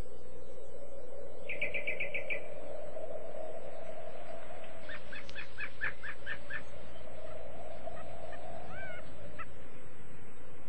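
Birds chirping: a quick run of about eight chirps a couple of seconds in, a longer run of repeated chirps around the middle, and a few short gliding whistles later, over a low, slowly wavering hum.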